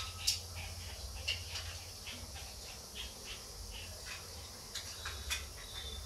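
Short, irregular bird chirps, two or three a second, over a steady low hum.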